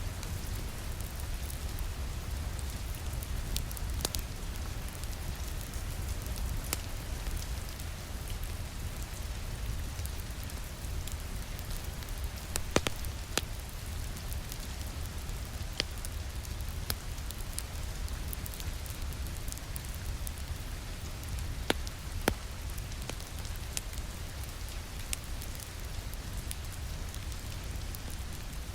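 Steady rain against a window mixed with a crackling wood fire in a fireplace: an even hiss of rain over a low rumble, with scattered sharp pops and crackles, the loudest a little before halfway and about three-quarters through.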